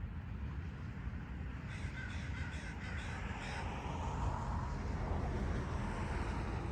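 Bird calling: a run of rapid repeated calls about two seconds in, then longer lower calls, over a steady low rumble.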